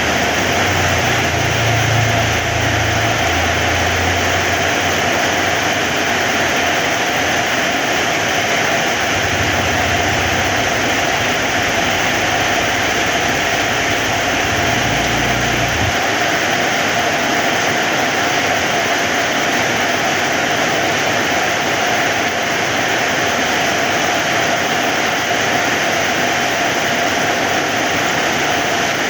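Heavy rain falling steadily in a dense, even hiss. A low rumble runs underneath during the first half and stops about sixteen seconds in.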